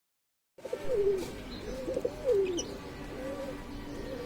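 Dove cooing, a series of low coos that each fall in pitch, starting about half a second in, with a few faint high bird chirps behind.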